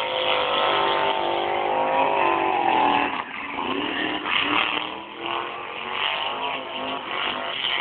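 Car engine held at high revs during a tyre-smoking burnout, its pitch climbing slightly about two to three seconds in. It then drops and turns into uneven on-off revving.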